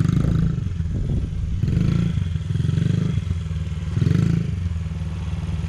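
Motorcycle engine running at low speed, its revs rising and falling briefly about four times.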